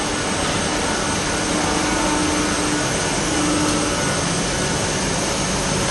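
MATEC 30 HV CNC machining center running: a steady, even mechanical noise with a faint high-pitched whine.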